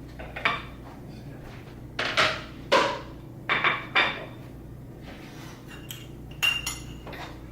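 Kitchen dishes and pans being moved and set down: a string of separate knocks and clinks, some ringing briefly, spread over several seconds.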